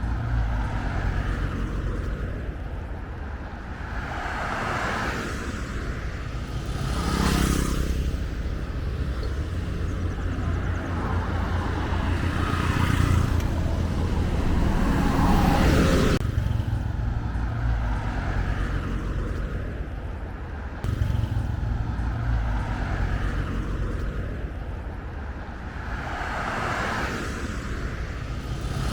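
Road traffic: vehicles passing one after another, each swelling and fading, over a steady low rumble.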